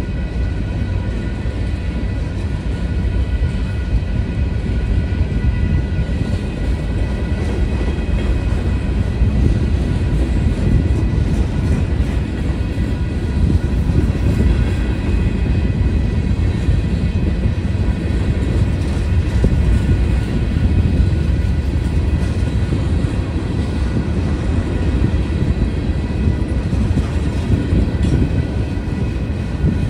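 Steady rumble of a Union Pacific manifest freight train's cars rolling past over the rails: a mixed string of container flats, boxcars, tank cars and covered hoppers. It keeps an even level throughout.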